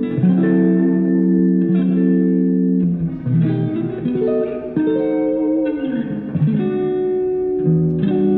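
Live band music: electric guitar playing slow, held chords over a bass line, with one sliding note a little past the middle.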